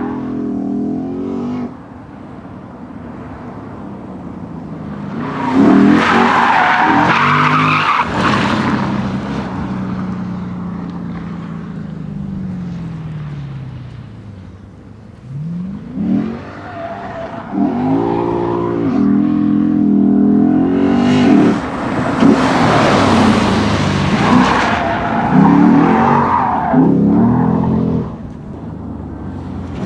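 Lexus IS F's 5.0-litre V8 revving up and falling away during drifting, with tyre squeal in two long stretches.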